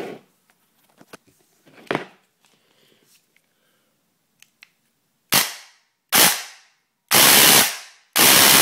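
Electric airsoft gun with an SHS high-torque motor and 10:1 dual sector gears on an 11.1 V LiPo, firing full-auto bursts at a very high rate of fire: after a few light clicks, two short bursts about five seconds in, then two longer bursts. Within each burst the shots run together into one continuous rattle.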